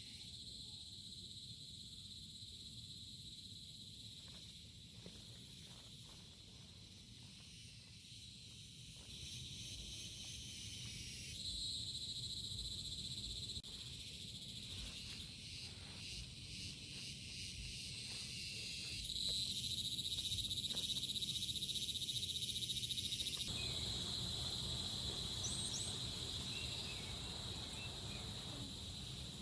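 Insect chorus chirring steadily in several high-pitched layers, growing louder in steps, over a low steady rumble; a soft hiss joins in about three quarters of the way through.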